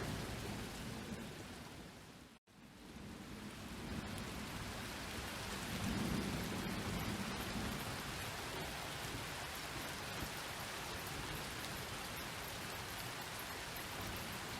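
Steady rain falling, with a low rumble of distant thunder about six seconds in. Early on the rain fades away to a moment of silence at about two and a half seconds, then fades back up, like a seam where the recording loops.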